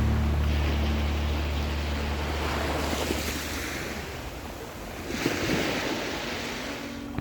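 Mediterranean surf on a sand-and-pebble beach: waves washing in, one about three seconds in and a louder one just after five seconds.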